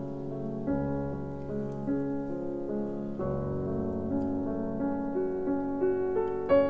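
Background piano music, with held chords changing every couple of seconds and quicker notes near the end.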